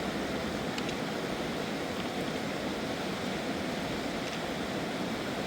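A fast mountain river rushing, a steady unbroken noise of flowing water, with a few faint short ticks.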